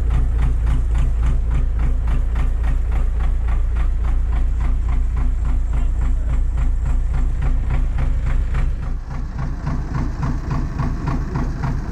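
MTZ-80 (Belarus) tractor's four-cylinder diesel engine idling with an even, knocking firing beat. About nine seconds in the low rumble lessens and the sound drops a little.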